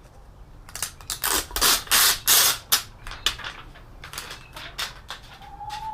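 Plastic and metal parts of an all-in-one PC being handled during disassembly: a string of sharp clicks and rattles with a few longer scraping, rustling noises. A faint rising call, the start of a chicken's call, comes near the end.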